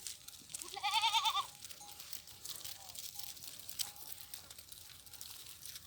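A single bleat from a sheep or goat in the flock, wavering in pitch and lasting under a second, about a second in.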